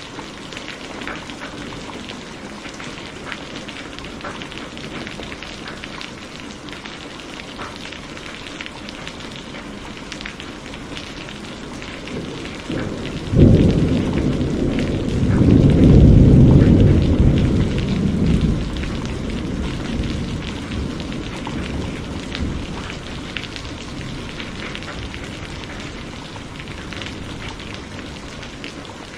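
Steady rain falling. About halfway through, a sudden thunderclap rolls into a deep rumble that swells for a few seconds and then fades back under the rain.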